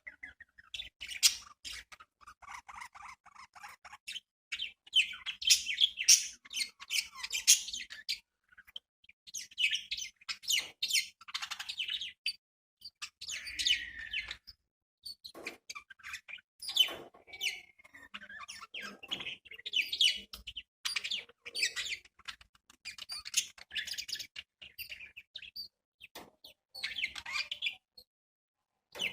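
Budgerigars chirping and chattering in quick, high-pitched bursts, with short pauses between them.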